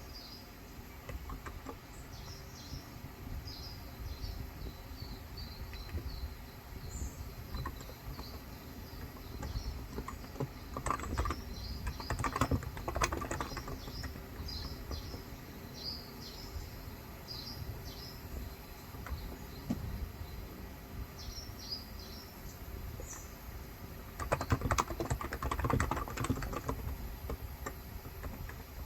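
Typing on a Cox Endeavor electro-capacitive (Topre-style) keyboard with 35 g switches: two spells of rapid keystrokes, one about ten seconds in and one near the end. Birds chirp throughout in the background.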